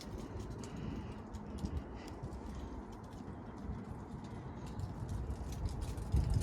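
Low scuffing and rustling of a person shuffling and crawling on the ground under a pickup truck, with a few faint knocks.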